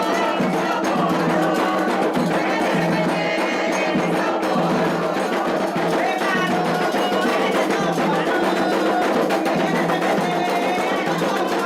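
Candomblé ceremonial music: steady rhythmic drumming and struck percussion with voices singing.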